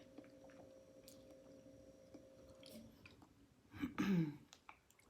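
Close-miked chewing of food in butter sauce, with soft wet clicks and mouth sounds. About four seconds in comes a short, louder pitched sound from the eater's throat, like a hum.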